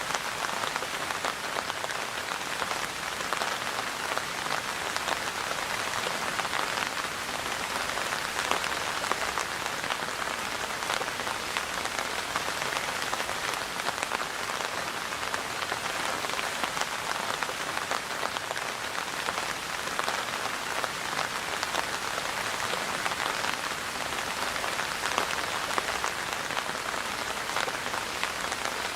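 Steady rain falling, a dense even hiss of many drops striking a surface with fine pattering ticks throughout.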